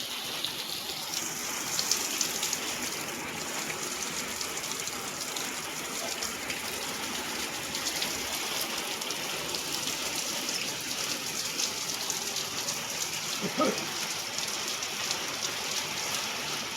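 Heavy rain pouring down: a steady hiss with dense patter of drops. A brief pitched sound cuts through about three-quarters of the way in.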